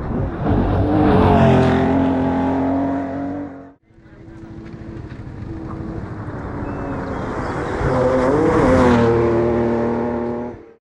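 Two classic rally cars at full throttle on a gravel stage, each engine note rising as the car closes in and bending in pitch through gear changes as it goes by. The first car's sound stops abruptly nearly four seconds in, and the second car's then builds up and peaks near the end.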